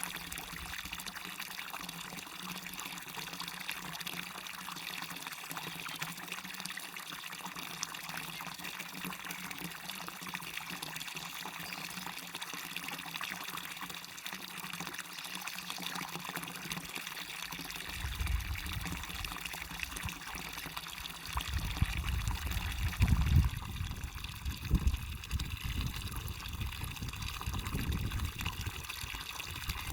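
Waterfall running in a steady, even rush of splashing water. In the second half, irregular bursts of low rumble come and go, loudest a little over 23 seconds in.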